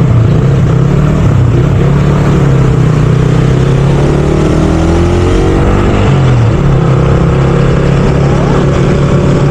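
Motorcycle engine running steadily under way, its pitch dipping briefly and picking up again about six seconds in.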